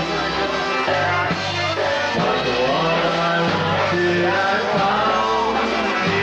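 Live polka band playing a song, with sung melody over steady bass notes.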